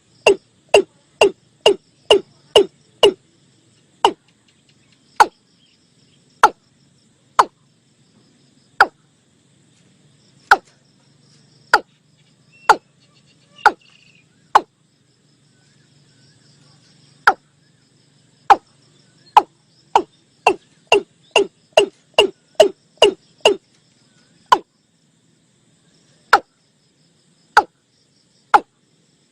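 Watercock calling a series of short knocking notes, each falling quickly in pitch. The notes come fast, about three a second, at first, then spread out to one every second or so, speed up again about twenty seconds in, and slow once more. Faint insects trill steadily behind.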